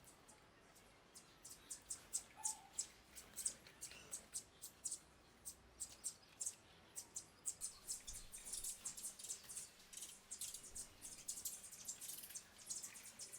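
Small birds chirping, a string of short, high chirps that starts about a second in and becomes busier and more continuous from about halfway through.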